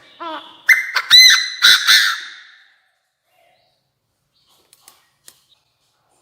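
Chinese francolin decoy cock calling: one loud, harsh run of quick notes lasting about two seconds, then a few faint clicks.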